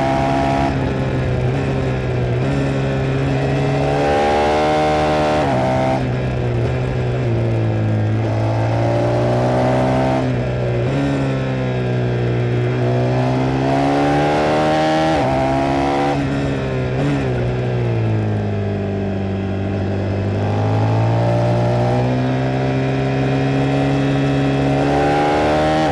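KTM 390 Duke's single-cylinder engine ridden hard: its pitch climbs again and again under acceleration and falls away between pulls.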